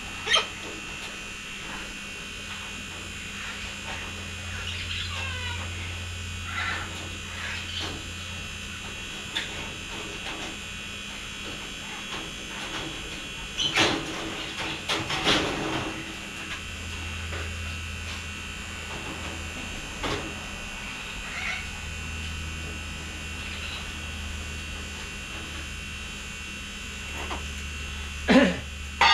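Galah cockatoos giving scattered short squawks and calls over a steady electrical hum. There is a cluster of louder calls about halfway through, and a loud falling squawk just before the end.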